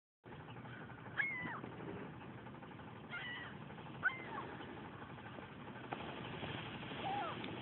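Four short mewing animal calls, each a quick rise and fall in pitch, the last one lower than the others, over a steady low background noise.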